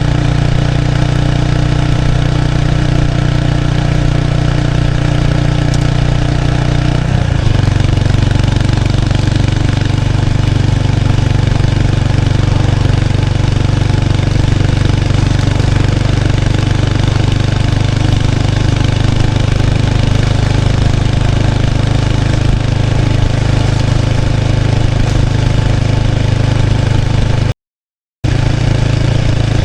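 Exhaust note of a 1993 Kawasaki Estrella's 250 cc single-cylinder four-stroke through its stock muffler, picked up close at the rear of the bike, running steadily under way. The engine note shifts about seven seconds in, and the sound drops out briefly near the end.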